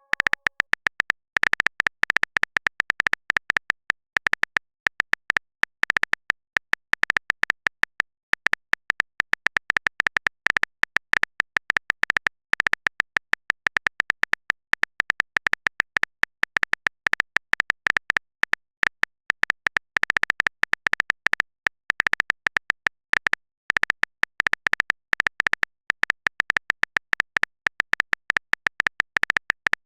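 Rapid, irregular run of short clicky taps, each with a high bright ring, continuing throughout: a phone-keyboard typing sound effect.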